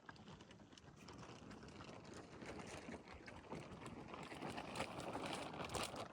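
Faint, steady wash of outdoor noise with a few soft knocks, slowly growing louder.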